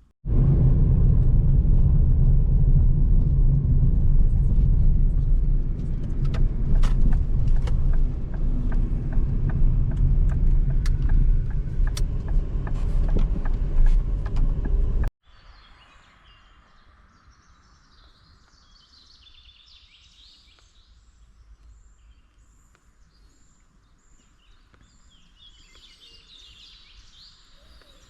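Pedal rail bike's steel wheels rumbling along old railway track, with scattered sharp clicks. About halfway it cuts off suddenly, leaving a quiet background where birds call twice.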